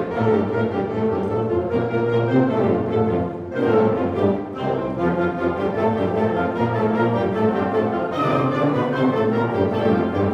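Community concert band playing a piece, brass and woodwinds holding full sustained chords. There is a short breath about three and a half seconds in before the band comes back in.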